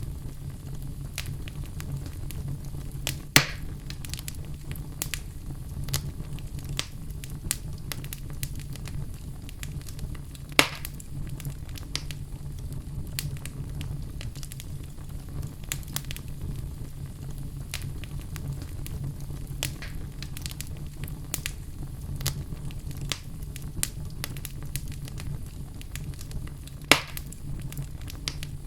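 Wood fire burning in a fireplace: a steady low rumble under frequent small crackles, with three louder pops spread through, the first about three seconds in and the last near the end.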